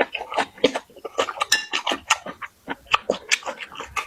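Close-up mouth sounds of a person eating: wet chewing and lip smacks in quick, irregular clicks.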